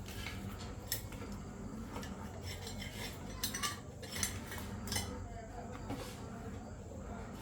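Light metallic clinks and taps of small metal tools or parts being handled, a few scattered sharp ones over a steady low background hum.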